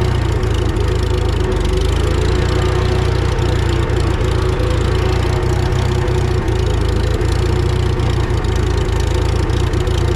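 Antique Farmall tractor engine idling steadily, an even, unbroken run.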